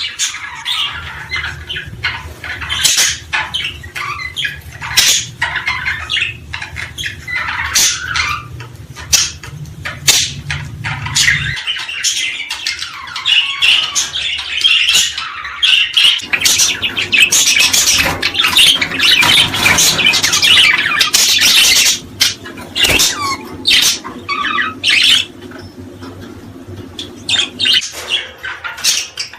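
A group of small birds chirping and calling rapidly, many sharp short notes and trills overlapping, densest around the middle. A faint low hum underneath stops suddenly about twelve seconds in.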